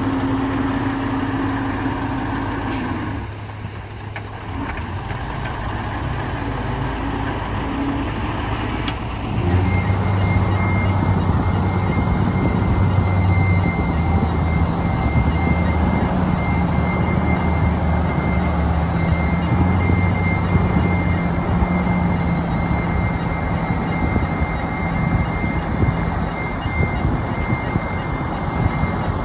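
Heavy diesel earthmoving machinery running, a bulldozer or dump truck. The engine note drops off briefly about three seconds in, then picks up and runs louder from about nine seconds on, with a steady high-pitched tone above it.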